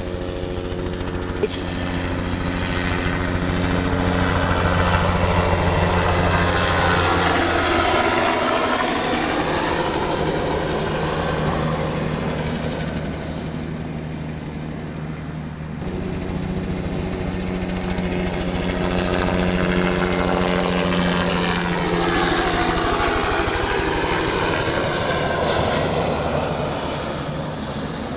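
Spray helicopter flying low overhead on its spraying runs, a steady rotor and engine drone that swells and fades as it passes, twice.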